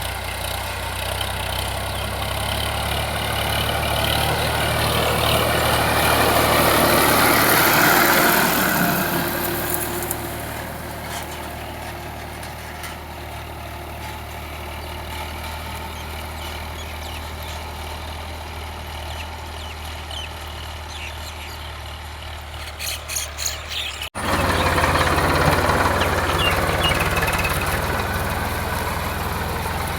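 Tractor diesel engine running steadily. It swells louder for a few seconds early on and then eases back. About two-thirds of the way through the sound cuts abruptly, and the engine continues louder afterwards.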